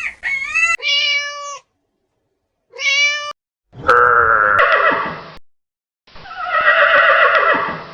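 Cat meowing: five separate calls with short silences between them. The later calls are longer, louder and harsher.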